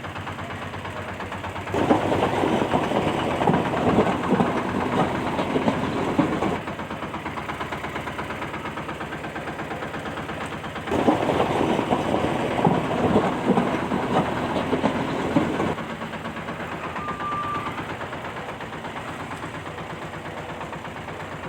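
Small battery-powered toy tractor's motor and gears running with a fast, steady rattling buzz. It grows louder and clattering in two stretches of about five seconds each.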